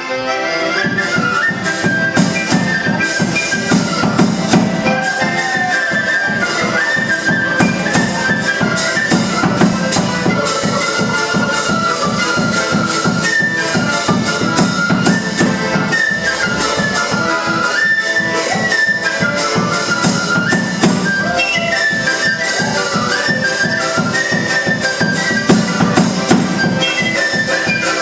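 Lively instrumental folk music from a live ensemble: a quick woodwind melody over a steady percussion beat.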